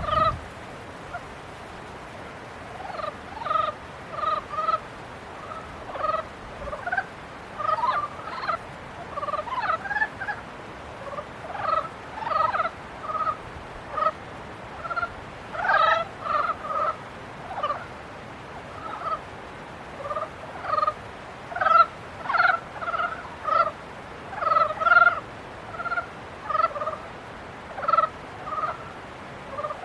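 A chorus of frogs calling in the breeding season: many short croaks throughout, several at a time, irregular and often overlapping.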